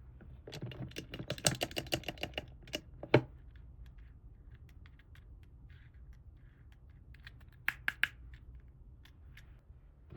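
Small hard plastic toy pieces being handled: a quick run of light clicks and taps for a few seconds ending in one sharper click, then a few more clicks near the end.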